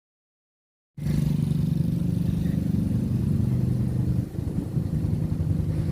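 An engine running steadily, cutting in suddenly about a second in, with a brief dip in level a little past the middle.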